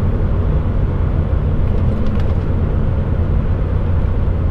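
Steady low drone of an HGV's diesel engine and road noise heard inside the cab, as the heavy truck slows on its engine brake with one setting already released. A few faint ticks come about two seconds in.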